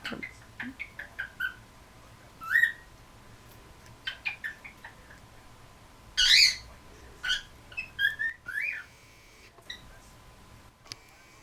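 Cockatiel giving a string of short chirps and quick rising whistles, with one much louder call about six seconds in.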